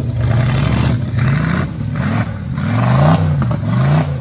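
Off-road 4x4 race vehicle's engine running hard, its pitch rising and falling several times as the throttle is worked on and off.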